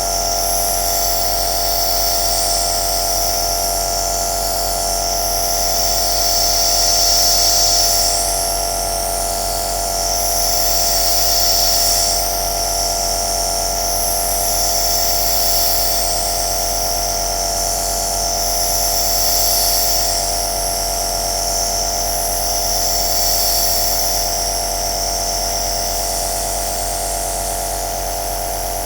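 Electric compressor nebulizer running steadily: a constant motor hum with a high airy hiss on top that swells and fades about every four seconds.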